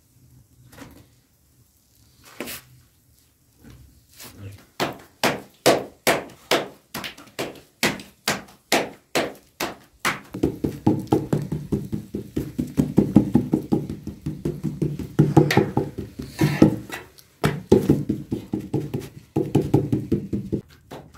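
A run of sharp knocks about twice a second, growing louder. Then a longer stretch of close crunching and chewing of fried flatbread.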